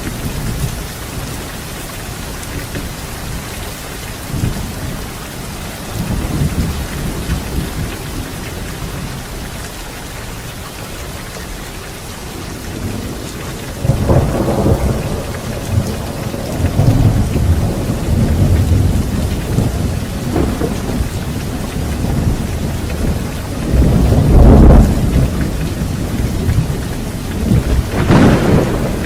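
Steady heavy rain with rolling thunder: low rumbles swell up several times, the loudest about three quarters of the way through, with a sharper crack near the end.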